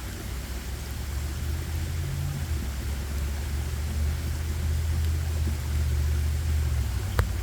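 A low, steady engine rumble that slowly grows louder, with a single sharp click near the end.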